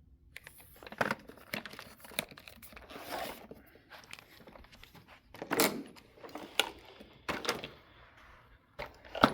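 Handling noises from a Karcher CV 300 upright vacuum being moved and manipulated, switched off: scattered clicks, knocks and rustles, with the sharpest knock near the end.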